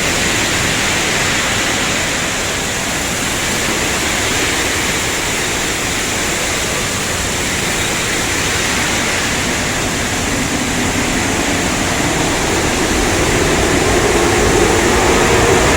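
Automatic car wash tunnel equipment: a steady rushing of water spray and machinery. A lower hum builds from about ten seconds in and grows louder near the end.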